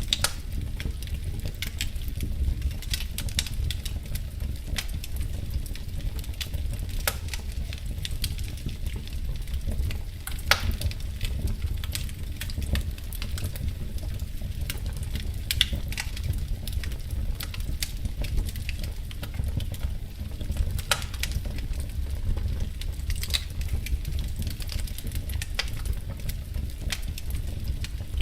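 Wood fire in a fireplace crackling: frequent irregular snaps and a few louder pops over a steady low rumble.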